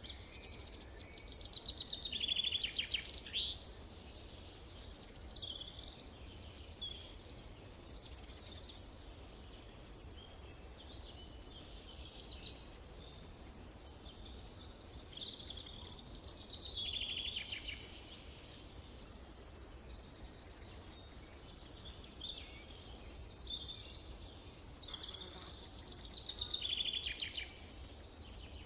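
Forest songbirds singing and calling, several at once: short chirps and whistles throughout, with rapid trills about two seconds in, around the middle and near the end. A faint low rumble runs underneath.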